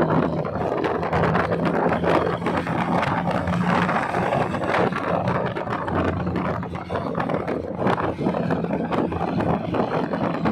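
Lowered Toyota Kijang running on the move: a steady low drone from its engine and aftermarket exhaust, mixed with road and wind noise.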